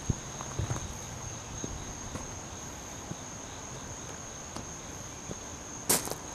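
Insects, likely crickets, making a steady high-pitched trill. A few footsteps fall near the start and one loud step comes near the end.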